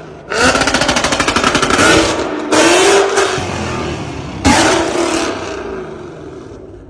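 Lamborghini Aventador V12 exhaust revved hard three times. The first rev breaks into a rapid rattle of pops and crackles, and the last dies away slowly.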